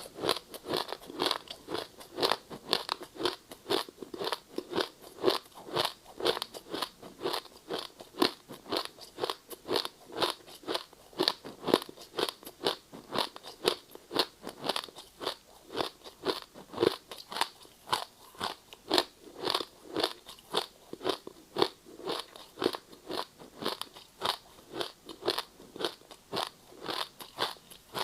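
Ice being bitten and chewed close to the microphone: a steady run of crisp crunches, about two to three a second.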